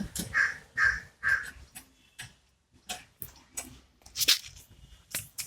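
A crow caws three times in quick succession, followed by scattered short clicks and taps.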